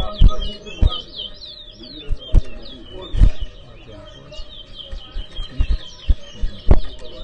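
Towa towa (chestnut-bellied seed finches) singing a fast, continuous run of high chirps and down-slurred whistled notes. Sharp low thumps break in several times, the loudest about three seconds in and near the end.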